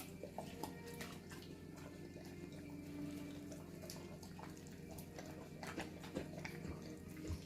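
A pet eating its bacon and egg breakfast: faint, scattered clicks and smacks of chewing and licking over a low steady hum.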